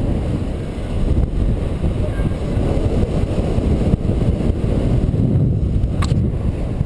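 Strong wind buffeting the microphone of a paraglider in flight: a loud, steady, low rumble. A single sharp click comes about six seconds in.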